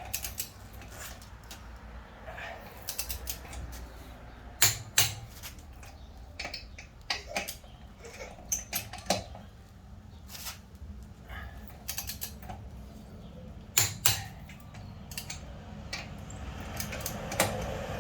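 Torque wrench ratcheting and clicking while lug nuts on a wheel are tightened: irregular runs of sharp metallic clicks with a few louder single clicks, over a low background hum.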